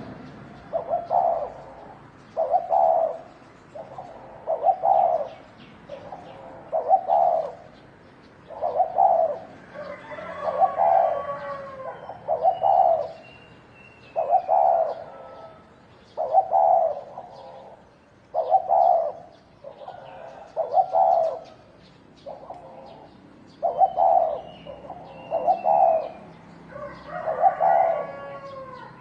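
Spotted doves cooing, a short cooing phrase about every two seconds, with small birds chirping faintly behind.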